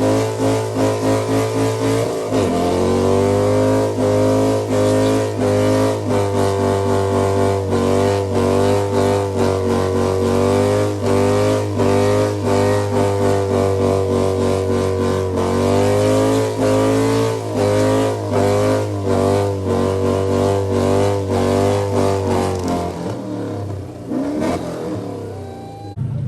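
Lifted show truck's engine held at high revs during a burnout, running steadily at a nearly constant pitch with a fast stutter, shifting a little about two seconds in and again midway, then the revs fall away near the end.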